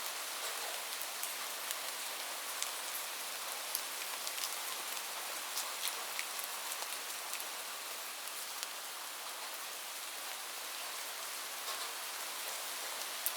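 Steady rain falling, an even hiss with scattered sharp drop ticks standing out.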